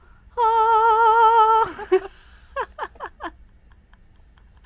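A voice sings one long wavering note, followed about a second later by four short, quick falling vocal sounds.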